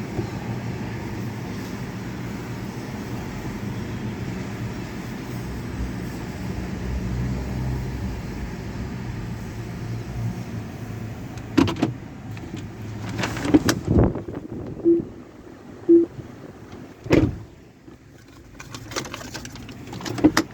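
Automatic tunnel car wash machinery running around a car: a steady low rumble, then from about halfway a series of sharp thumps and knocks, with two short tones in between.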